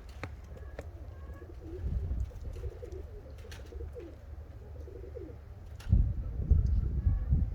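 Pigeons cooing in soft, repeated low calls. Near the end comes a louder low rumble on the microphone.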